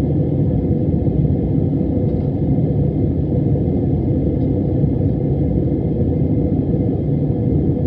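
Steady, loud low rumble of a jet airliner's engines and airflow heard from inside the passenger cabin, with a faint steady whine above it.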